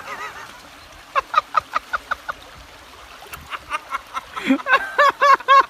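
Ducks quacking in two quick runs of calls: the first run fades away call by call, and the second, louder run comes in the second half.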